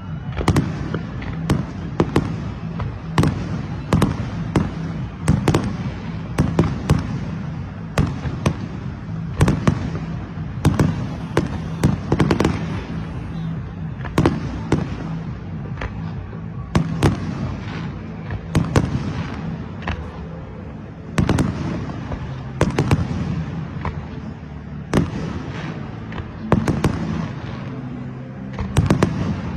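Fireworks going off: a continuous run of sharp bangs and cracks at irregular intervals, about one a second and sometimes several close together, over a steady low rumble.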